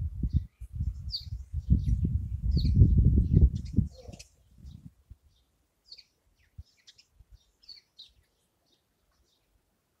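Small birds chirping, short high calls every second or so. A loud low rumble runs under them through the first half and dies away about five seconds in.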